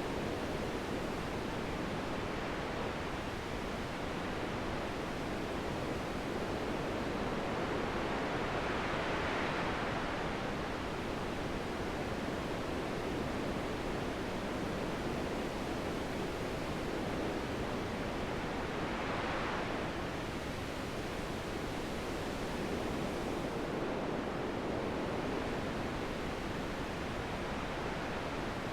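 Wind blowing steadily, swelling in two gusts, about a third of the way in and again about two-thirds through.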